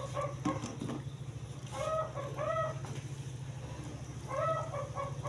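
Chickens clucking, in short groups of two or three calls that come about every two to two and a half seconds, over a steady low hum.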